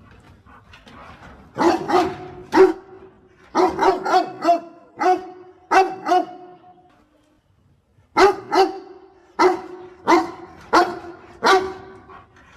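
A dog barking repeatedly, sharp single barks coming in three quick volleys with a short quiet break past the middle.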